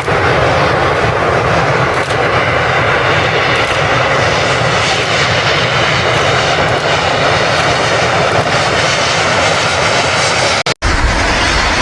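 Steam locomotive at work, a loud steady rushing roar. It breaks off for an instant near the end and comes back with a deeper rumble.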